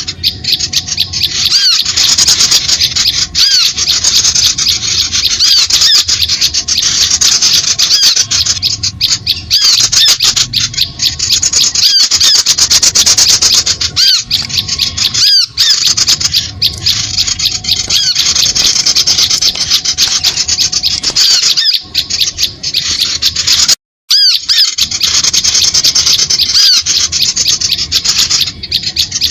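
Recorded small-bird calls played as a bird lure (suara pikat): a dense, continuous, scratchy chatter of rapid high notes with quick chirps mixed in. It breaks off for a moment about three-quarters of the way through.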